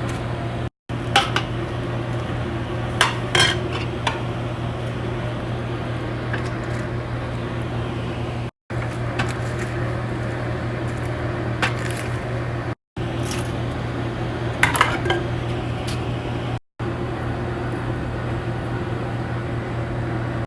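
Metal utensils clinking and knocking against cooking pots a few times, over a steady low hum.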